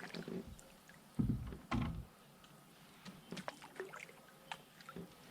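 Fishing kayak on the water: two low thumps against the hull about a second in, then scattered small clicks and knocks of gear on the boat.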